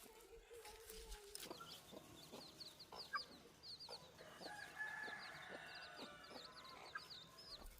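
Faint chickens clucking, with a rapid run of short, high chirps starting about a second and a half in.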